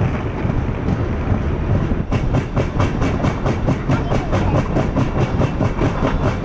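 Express train coaches rolling out of a station, heard from an open doorway: a steady rumble, joined about two seconds in by a quick, even clatter of the wheels on the rails.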